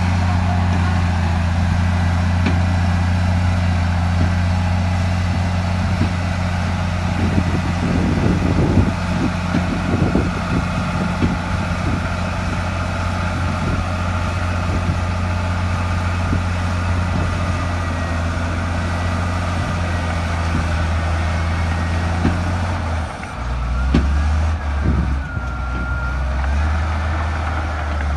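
Heavy earthmoving machine's diesel engine running steadily, with a spell of clanking and scraping about a third of the way in. About three quarters of the way through, the engine note drops lower and then shifts up and down.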